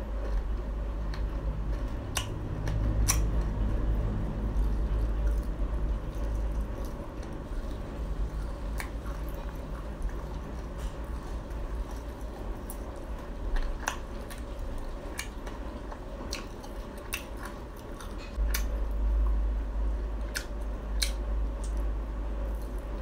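Close-up chewing of Khmer crispy cakes, with scattered sharp crunches and clicks over a steady low mouth noise.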